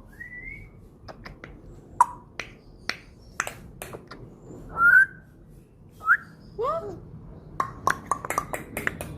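A parrot giving several short whistles, some rising in pitch, among many sharp clicks that come quicker near the end.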